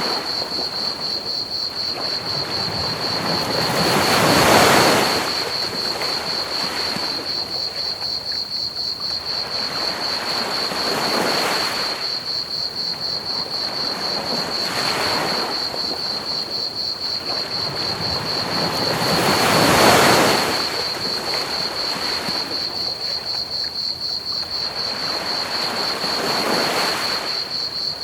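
Ocean waves washing onto a beach, five slow swells rising and falling, the loudest about four seconds in and again near twenty seconds. Over them runs a constant, rapidly pulsing cricket chirp, all on a steady hiss of pink noise.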